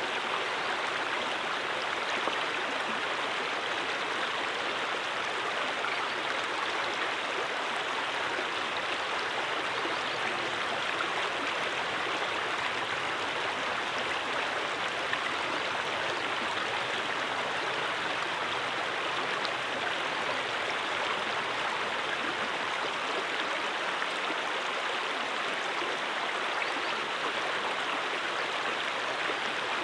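Brook water flowing and splashing over stones, a steady, unbroken rush.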